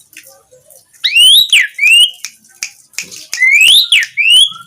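Asian pied starling (jalak suren) singing in full chatter: loud, clear whistled notes that sweep up and fall away, in two bursts from about a second in, with sharp clicks between them.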